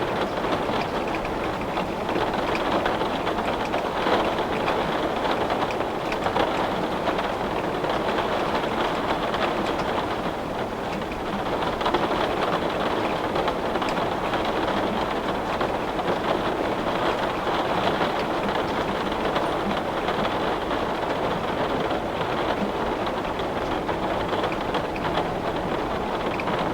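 Heavy rain beating steadily on a window pane, a dense, even patter with small louder drop hits scattered through it.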